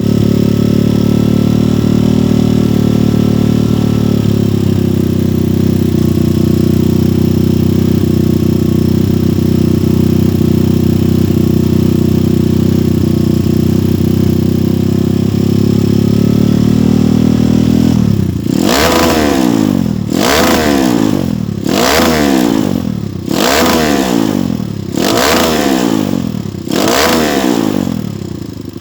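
Kawasaki KLX single-cylinder dirt bike running through a GP7 Max 4.1 aftermarket exhaust: a steady loud idle for most of the time, then, from about two-thirds of the way in, repeated sharp throttle blips, about one rev a second, each rising and falling quickly.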